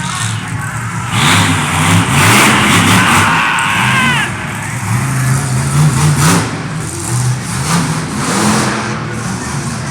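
Monster truck engine revving up and down, with a loud rush of higher noise over it from about one to four seconds in.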